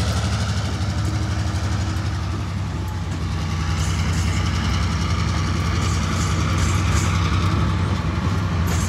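Tasrail TR-class diesel-electric locomotives hauling a freight train past at low speed, a steady low engine rumble. From about four seconds in, faint repeated clicks come from the passing freight wagons' wheels on the rails.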